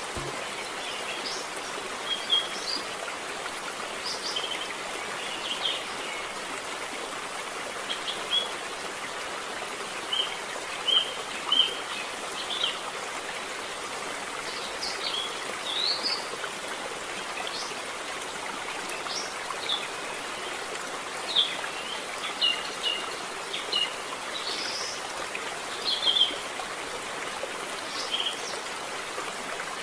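Short, high bird chirps, irregular and a second or two apart, over a steady hiss.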